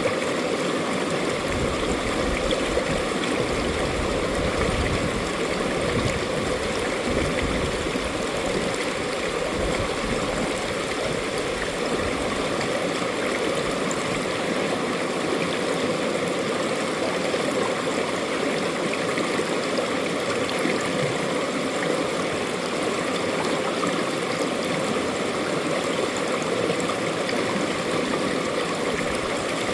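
Mountain stream water running over rocks in a steady, even rush, with low rumbles coming and going in the first dozen seconds.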